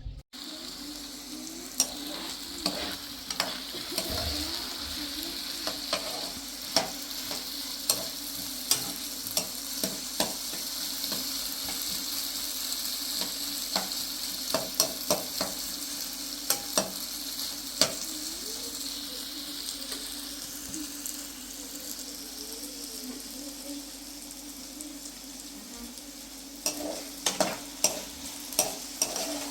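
Food frying in a pan with a steady sizzle, and frequent sharp clicks of a utensil against the pan as it is stirred, coming thicker near the end.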